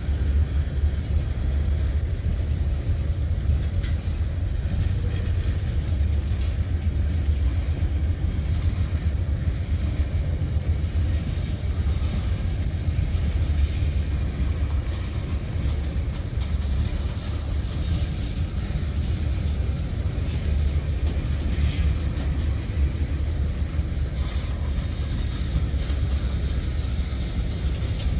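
Freight train cars, mostly tank cars, rolling past on the rails: a steady, deep rumble of wheels on track, with a couple of faint sharp clicks.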